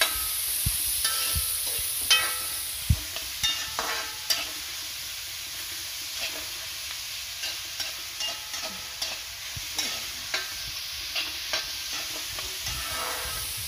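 Shallots and chopped coconut frying in coconut oil: a steady sizzle, with the stirring utensil scraping and knocking against the pan, the knocks most frequent in the first few seconds. They are being cooked until they turn red-brown.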